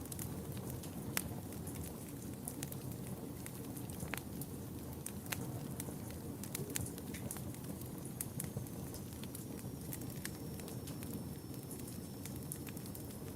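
Wood fire burning in a fireplace: a steady low rush of flames with irregular sharp crackles and pops from the burning wood, one louder pop about a second in.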